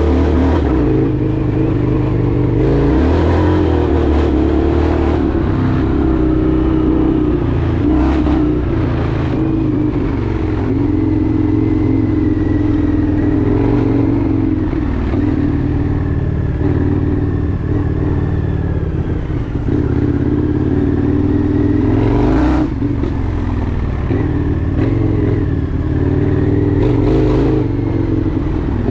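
Indian FTR 1200's V-twin engine running under way, its note rising and falling with throttle and gear changes. Several brief rushes of noise come through, about half a dozen times.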